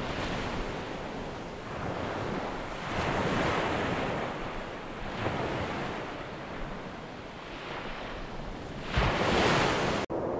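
Ocean surf washing onto a shore with wind, swelling and fading every couple of seconds, the biggest wave just before the end; the sound cuts off abruptly just before the end.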